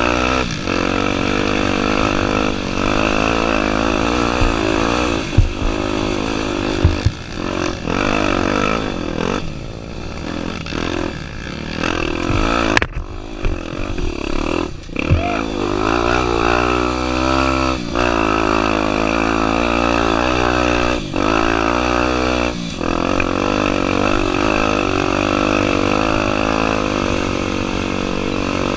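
Honda Tornado 250's single-cylinder four-stroke engine running hard, its pitch rising and falling again and again with brief throttle cuts, and a few sharp knocks along the way.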